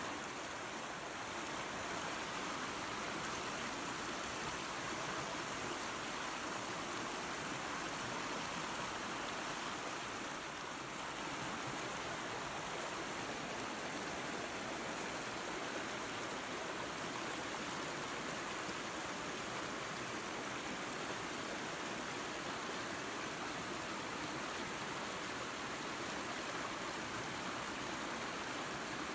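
Small waterfall and creek: water rushing steadily over rocks in an even hiss.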